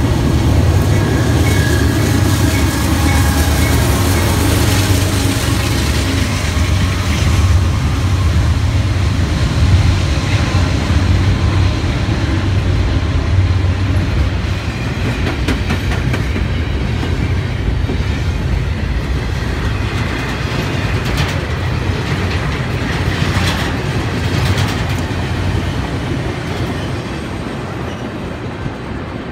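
Union Pacific diesel locomotives passing with a heavy engine rumble, then a long double-stack container train rolling by with a rumble and clickety-clack of wheels over the rail joints and occasional clanks, fading as the end of the train goes by.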